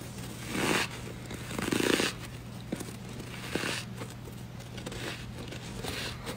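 Bites into soft freezer frost, crunching four times in a row, the second bite the loudest.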